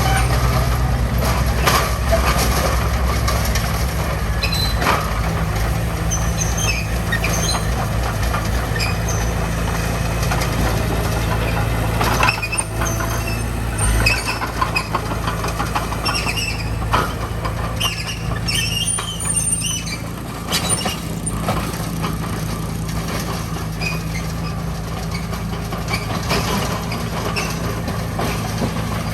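Heavy diesel construction machinery running steadily, with scattered metallic clanks and short high squeaks over the engine.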